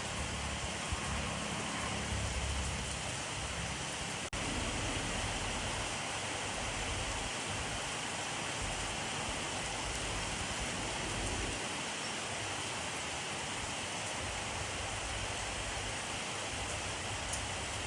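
Steady rainfall, a dense even hiss of rain falling on surfaces, with a momentary dropout about four seconds in.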